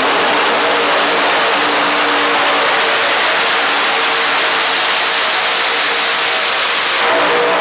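Pulling vehicle's engine running flat out on a sled pull, a loud steady sound that begins to die away near the end.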